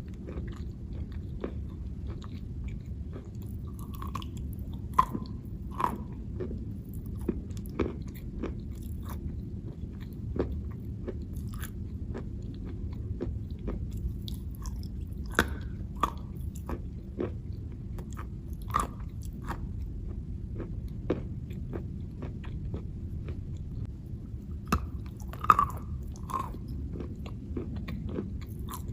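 Chalk being bitten and chewed up close: irregular dry crunches and snaps, a few sharper than the rest, over a steady low background noise.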